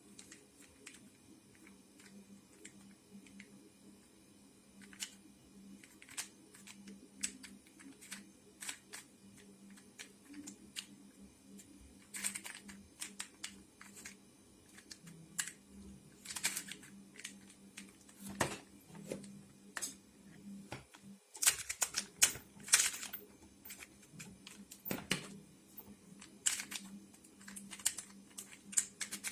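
Hand-turned 3D-printed resin twisty puzzle cube, its plastic pieces clicking and clacking irregularly as the layers are twisted, with a louder cluster of clacks a little past two-thirds of the way through. A faint steady low hum runs underneath.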